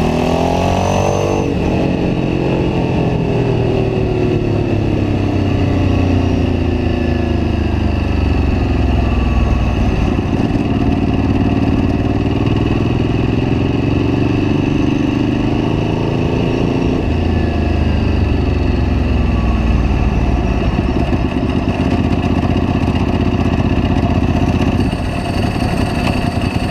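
Ducati 749S's L-twin engine, picked up by a bike-mounted camera. It revs up sharply in the first second or so, then its pitch sinks slowly, climbs again and holds fairly steady.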